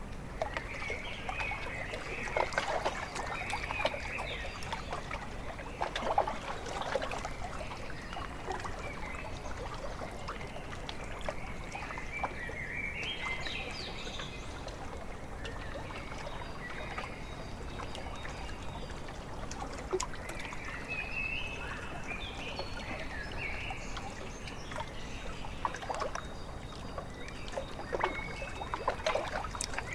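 Small waves lapping and splashing at a lake shore in irregular little strokes, with birds calling in short chirping phrases several times.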